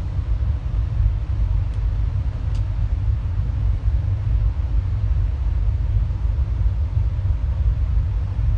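Steady low rumble and rush of a moving passenger train, heard from on board.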